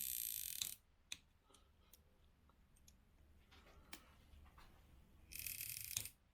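Two short hissing sprays about a second each, one at the start and one about five seconds in, with light metal clicks and taps of tools between.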